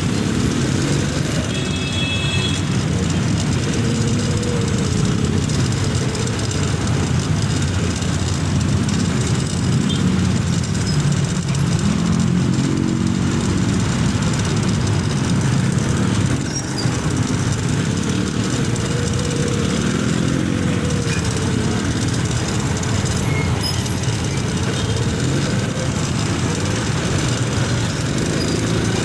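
Motorcycle engine running under way, its pitch rising and falling several times as it speeds up and slows down, over a steady rushing noise.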